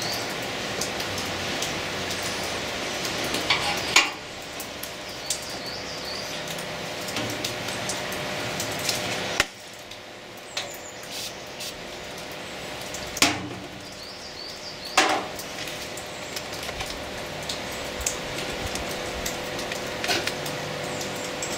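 Steady hiss of heavy rain, with a steady hum beneath it. A few short knocks and clinks of metal come through the hiss.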